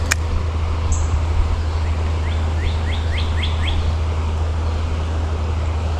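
A songbird gives a quick run of about six short chirps about two seconds in, over the steady rushing of a flowing creek with a low rumble underneath.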